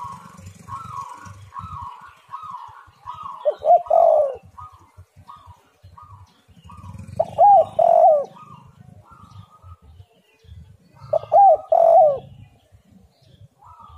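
Spotted dove cooing: three loud phrases of a couple of deep notes each, about four seconds apart. Behind them a softer, higher call repeats about twice a second.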